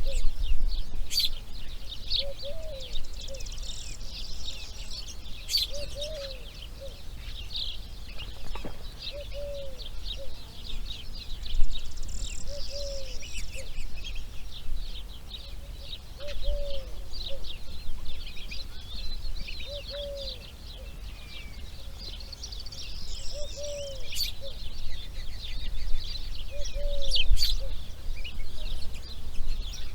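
Outdoor birdsong: many small birds chirping and twittering continuously, with a low, arching call repeated about every three seconds under them.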